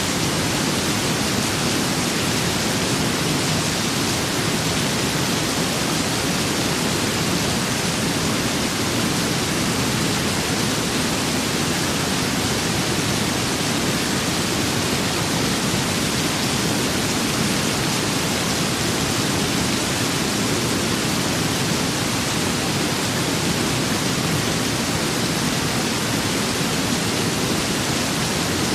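Steady rain and wind ambience: a dense, even hiss with a low rumble underneath, unchanging throughout, with no single drops, gusts or thunder standing out.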